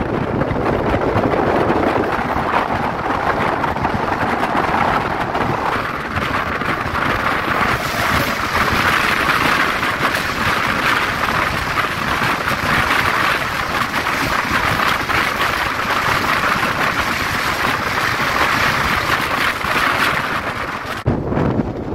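Passenger train running at speed, heard from on board as a steady rushing noise with wind buffeting the microphone. The noise shifts higher about a third of the way in and changes abruptly near the end.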